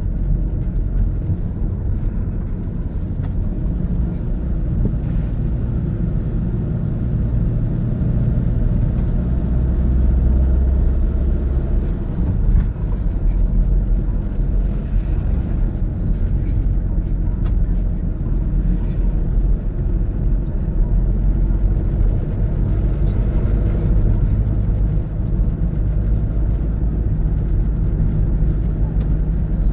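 Car driving: steady low engine and road rumble.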